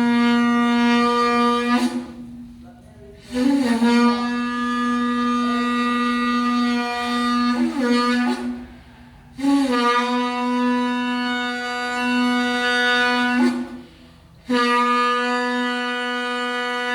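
Shofar sounded in long, steady blasts on one held, brassy note. A blast ends about two seconds in, and three more follow with short pauses for breath between them. Each blast opens with a brief upward scoop in pitch before settling.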